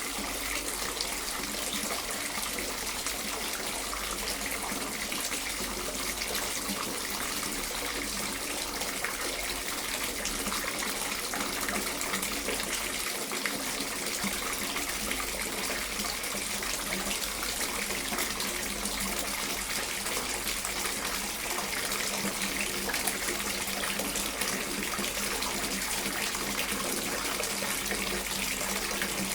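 Water running steadily from a tap, a continuous even splashing rush.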